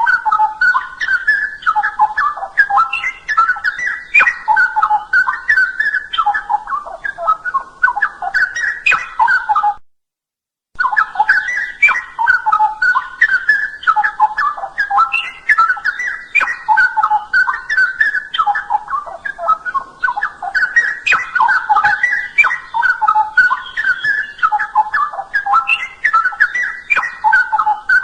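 Straw-headed bulbul singing a continuous stream of rich, loud, bubbling warbled phrases. The song breaks off for about a second a third of the way in, then carries on.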